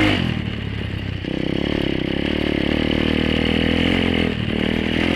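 Apollo 125cc dirt bike's single-cylinder four-stroke engine running under way: the revs fall in the first second, climb and hold from about a second in, dip briefly about four seconds in, then pick up again.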